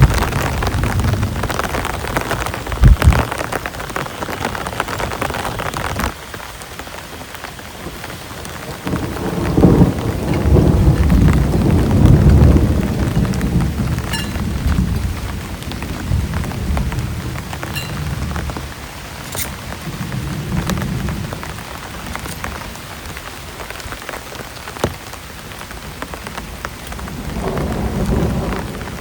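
Heavy rain falling steadily, with rolling thunder. The rumble swells loudest about a third of the way through, after a short sharp crack early on.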